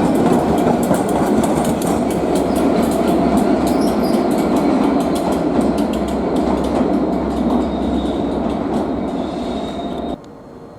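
A train passing close by: a steady rumble with rapid wheel clicks on the rails, easing slightly, then cutting off suddenly near the end.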